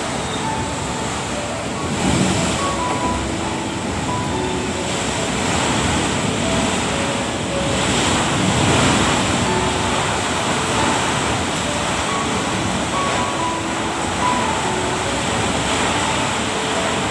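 Heavy rain and gusting wind make a steady rushing noise that swells about two seconds in and again around the middle.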